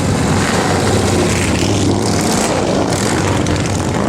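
Motorcycle engines running steadily, several together, with a dense noise over them.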